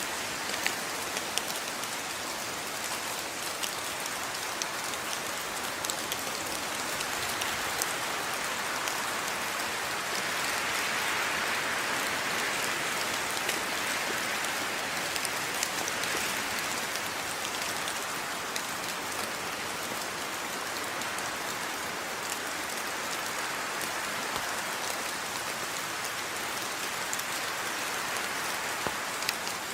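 Steady rain falling, a dense hiss of drops with scattered sharper individual drop ticks, swelling slightly for a few seconds in the middle.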